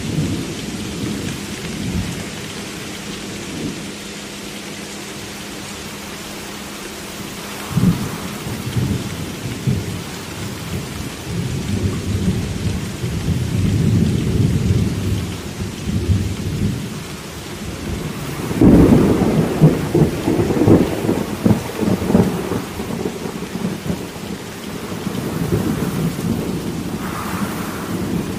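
Thunderstorm: steady rain with thunder rumbling throughout. A sudden louder clap comes about eight seconds in, and the loudest peal starts about two-thirds of the way through, rolling on for several seconds.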